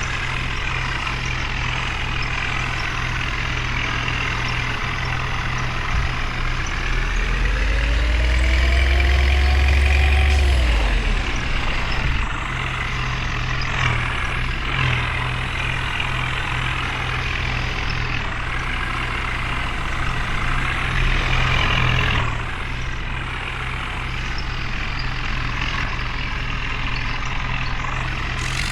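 Heavy diesel engines of a tractor and a truck running hard under load, their pitch wandering up and down. About a quarter of the way in they get louder, and a tone rises and then falls for a few seconds.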